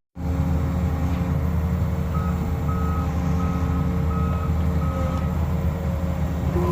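Diesel engine of a large demolition excavator running steadily, with a backup alarm beeping five times in the middle.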